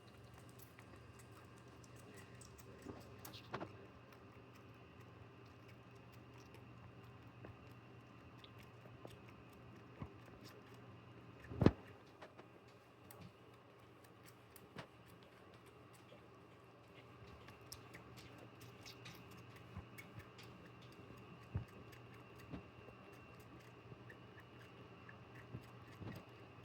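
A tiny kitten suckling milk from a feeding bottle, giving faint, scattered wet clicks and smacks over a low steady hum. A single sharp knock comes about twelve seconds in.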